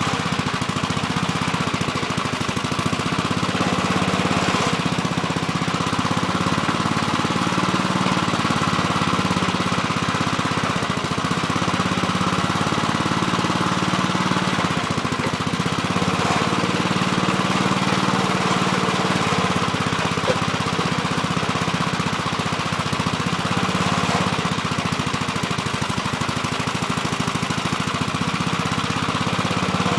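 Gravely Terramite backhoe engine running steadily, swelling and easing a little in stretches.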